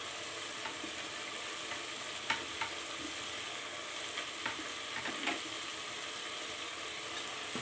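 Chicken masala frying in oil in an aluminium pressure cooker: a steady sizzle, with a few light clicks of the steel ladle against the pot.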